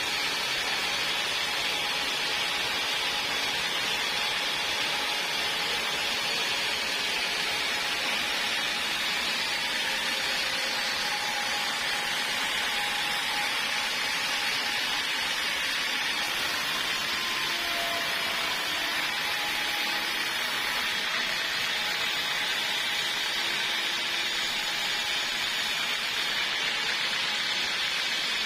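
Portable sawmill sawing through a log: a steady, even hiss of machine noise that holds without a break.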